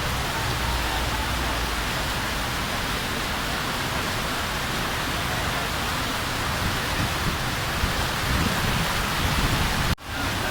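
Heavy rain falling in a steady downpour, an even rushing hiss. The sound cuts out for an instant near the end.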